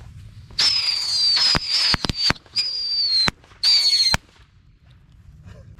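Whistling fireworks going off in quick succession: a run of shrill whistles, each falling slightly in pitch and cut off by a sharp crack. Five or six whistles and cracks in about three and a half seconds, ending suddenly.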